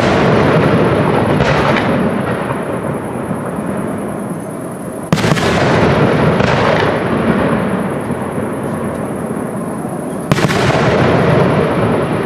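Aerial fireworks shells bursting overhead. There are sharp bangs about five and ten seconds in, with smaller ones about a second and six and a half seconds in, and each trails off into a long rolling rumble of echo.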